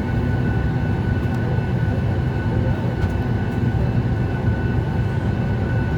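Steady cabin noise inside a Boeing 737 MAX 8 with its engines running: an even low rumble with a thin steady whine above it.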